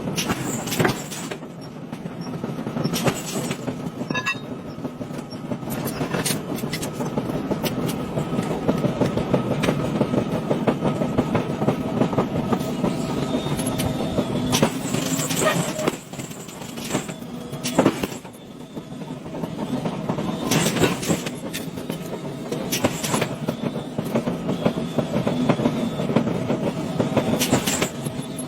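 Machinery running with a steady rumble, broken by frequent sharp clanks and knocks.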